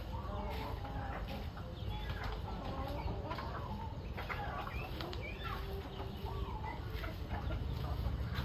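A flock of chickens clucking, many short calls overlapping, over a steady low rumble.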